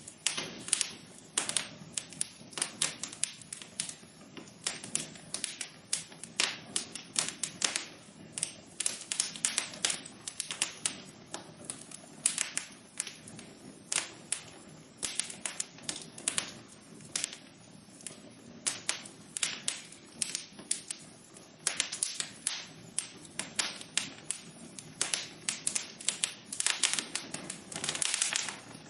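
Wood fire crackling in a fireplace: dense irregular pops and snaps over a low steady hiss of burning.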